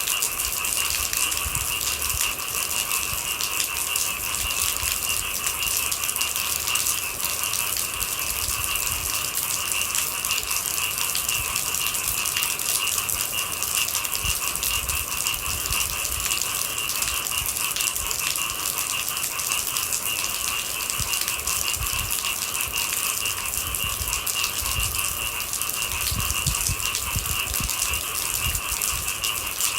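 Steady rain with a continuous chorus of night animals, heard as two steady high pitches over the hiss of the rain. Irregular low thuds sound underneath.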